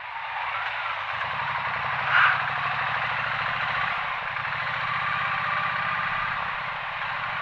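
Motorcycle engine running steadily while riding, with wind and road noise over it and a brief louder swell about two seconds in.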